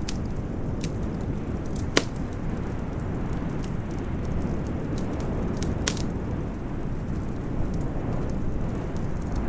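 A steady rush of storm wind, heaviest in the low end, with a wood fire crackling over it in scattered sharp pops. The loudest pop comes about two seconds in and another near six seconds.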